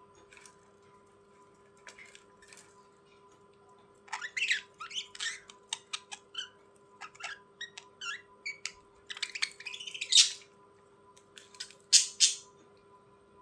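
Budgerigars chirping and squawking in quick, short calls, starting about four seconds in and busiest near the end, over a faint steady hum.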